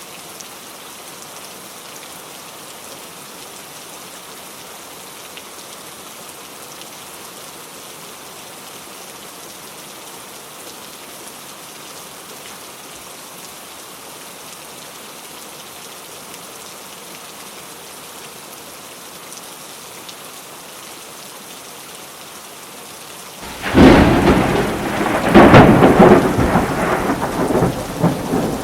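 Steady rain falling, then near the end a sudden loud thunderclap that rumbles on with a second crash.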